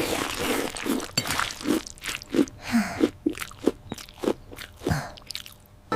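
Crunchy chewing sound effect for a cartoon kitten eating: a run of quick crunches, about three a second, that stops shortly before the end.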